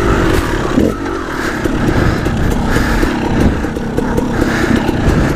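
Dirt bike engine running hard as it is ridden over rough trail, its pitch rising and falling as the throttle is worked, with knocks and rattles from the bike over the bumps.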